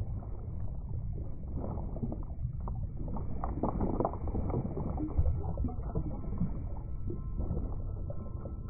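Muffled underwater water ambience: a low, steady rumble of moving water with bubbling and gurgling throughout, busiest around the middle.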